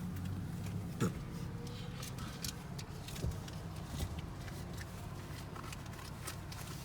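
Car engine running at idle, a steady low hum, with scattered light clicks and a sharper knock about a second in.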